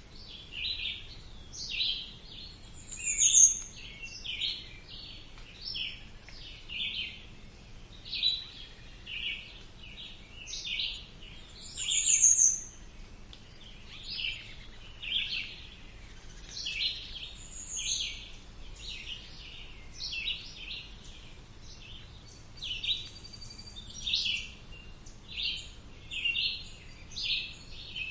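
Birds chirping in short repeated calls, about one or two a second, with a louder, higher, falling call three times. A faint steady background hum lies underneath.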